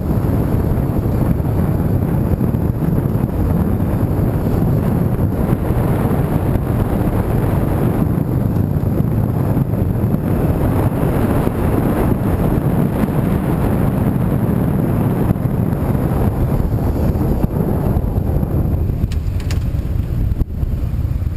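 Car on the move: steady road and engine noise, heaviest in the low end, with a few faint clicks near the end.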